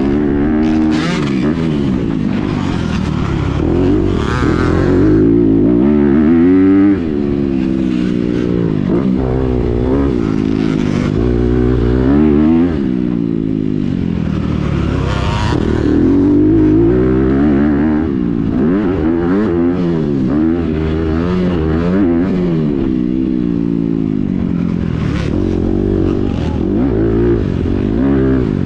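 Honda CRF250R's single-cylinder four-stroke engine through a Yoshimura titanium exhaust, revving hard and backing off over and over, its pitch climbing and dropping every couple of seconds as the rider accelerates, shifts and rolls off the throttle.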